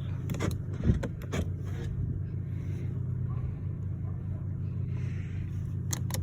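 2002 Chevrolet Impala's 3800 Series II V6 idling steadily, heard from inside the cabin, with a few sharp clicks in the first two seconds from the power door locks being worked and more clicks near the end.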